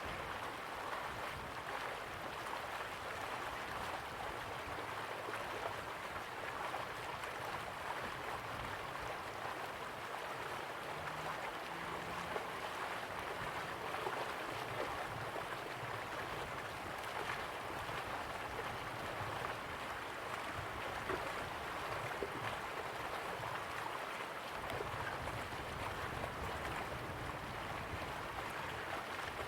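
River water flowing, a steady rushing with faint gurgling.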